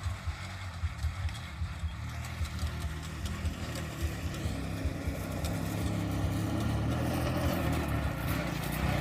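Small motorcycle engine of a three-wheel mini truck running with a low, pulsing sound, growing gradually louder through the second half.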